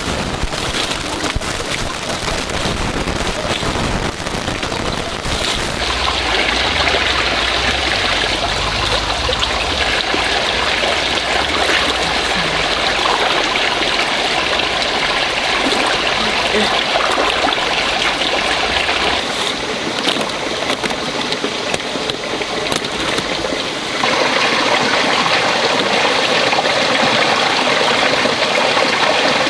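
Steady rushing of running water. A low wind rumble on the microphone lies under it at first and drops away about two-thirds of the way through, and the sound shifts abruptly a few times.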